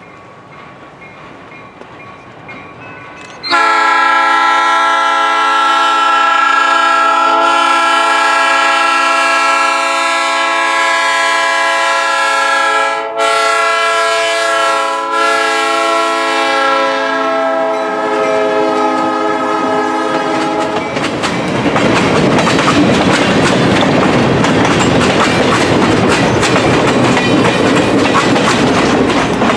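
Diesel locomotive air horn blowing loudly as the train approaches: one long blast held for about seventeen seconds, broken twice very briefly. The horn then stops as the train passes close by, with the rumble and clickety-clack of the cars' wheels on the rails.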